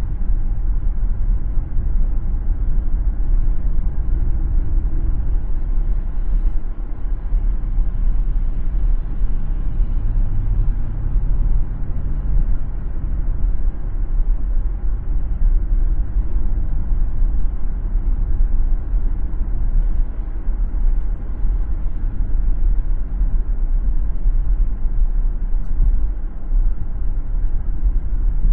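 Car driving along a city road: a steady low rumble of tyres and engine.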